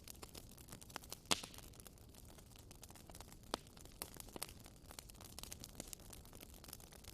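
Campfire crackling: a soft low hiss with many small irregular pops and snaps, one sharper pop about a second in and another about three and a half seconds in.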